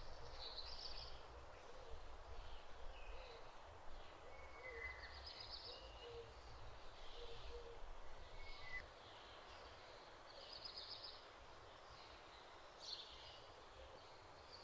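Birds singing faintly. A short song phrase, a falling note and a higher trill, repeats about every five seconds. A low rumble underneath fades out about nine seconds in.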